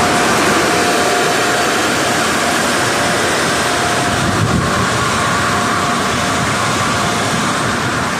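Steady, loud rushing noise of car wash equipment running, with a faint tone that comes and goes.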